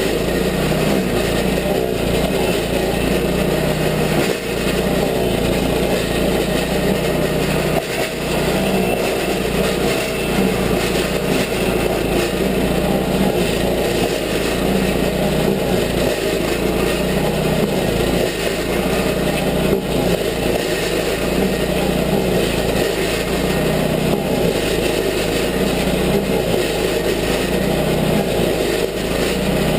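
Petrol engine of a Toro stump grinder running steadily at high speed while the cutter wheel grinds into an apple tree stump.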